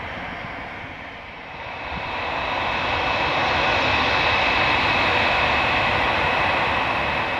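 Twin Garrett TPE331 turboprop engines of a Mitsubishi MU-2B-36A at takeoff power, growing louder about two seconds in, with a steady high-pitched whine over the engine noise.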